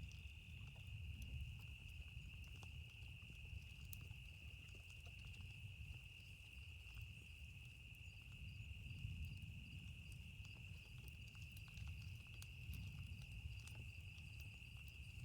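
Steady high-pitched chirring chorus of night insects, with scattered small crackles of a wood campfire and a faint low rumble underneath.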